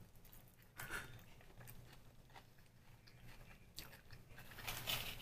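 Faint close-up chewing of a mouthful of homemade sushi roll, with small wet mouth clicks over a low steady hum, and a short louder hiss near the end.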